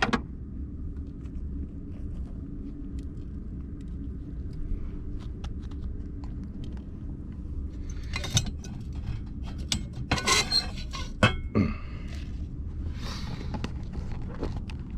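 Scattered clicks and short bursts of rustling and clatter from things being handled, busiest about eight seconds in and again around ten to twelve seconds, over a steady low rumble.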